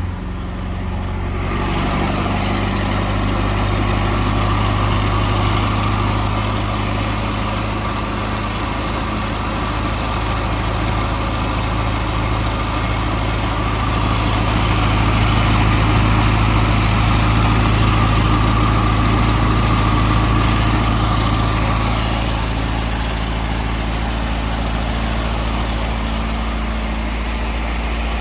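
1967 Alfa Romeo Duetto's 1.6-litre twin-cam four-cylinder with dual carburettors running steadily at idle, a distinctive Alfa sound. It gets a little louder around the middle, then eases back.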